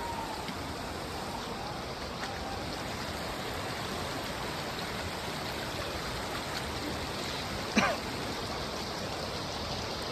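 Waterfall water rushing steadily. About eight seconds in, a brief, sharp pitched sound stands out above it, the loudest moment.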